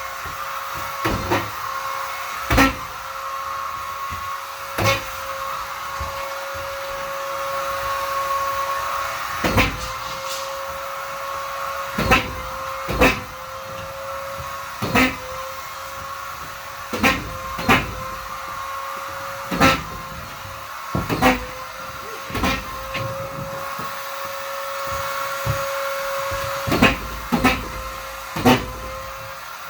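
Vacuum cleaner running steadily with a constant whining hum. Irregular sharp knocks and clacks cut through it every second or few.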